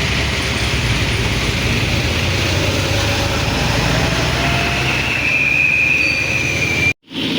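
Heavy truck running close by with a steady low engine drone. A high thin squeal rises over it for about two seconds near the end, then the sound cuts off abruptly.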